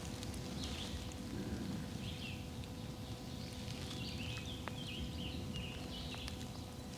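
Wild birds calling in the woods: short high chirps, a few at first and then a quick run of them in the middle, over a steady low background rumble.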